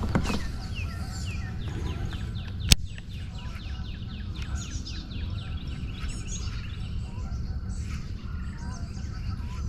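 A songbird singing a long run of quick, short downward-sliding notes over a low steady rumble. A single sharp click sounds a little under three seconds in.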